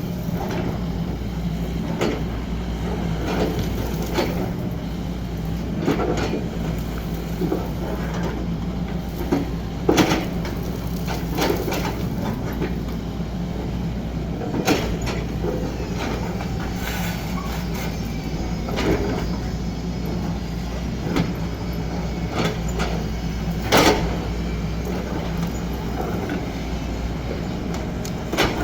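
XCMG 75 excavator's diesel engine running steadily under work, with irregular clanks and knocks from the machine as it digs, the loudest about a third of the way in and again near the end.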